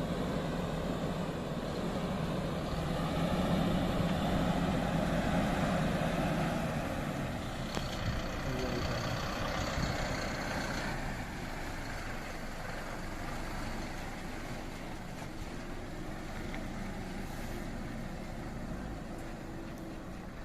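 Tata 1512 truck's diesel engine running while the truck is manoeuvred slowly into position, louder through the first several seconds and then settling to a steadier, quieter run.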